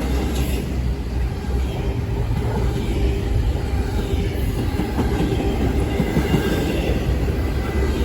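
Double-stack intermodal well cars of a freight train rolling past, a steady heavy rumble and clatter of steel wheels on the rails with a faint steady whine over it.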